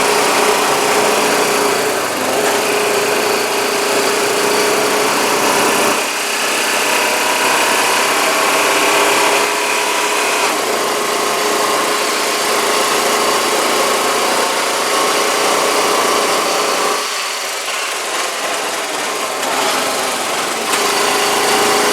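Four-wheeler (ATV) engine running steadily under way. It eases off about seventeen seconds in and picks up again near the end.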